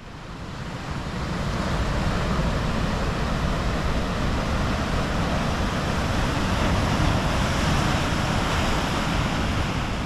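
Steady rushing of sea surf washing on the shore, swelling up over the first two seconds and easing off near the end.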